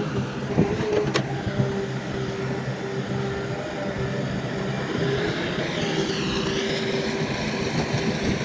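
Heavy earthmoving machinery running: a steady diesel engine note with a constant whine, a sharp click about a second in and a wavering squeal near the end.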